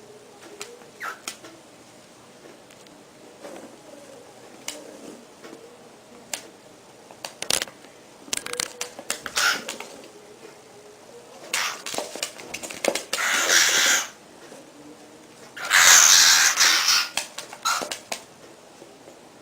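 A bird at play: scattered sharp clicks and taps, then several harsh, noisy calls of a second or more in the second half, the loudest about two-thirds of the way through.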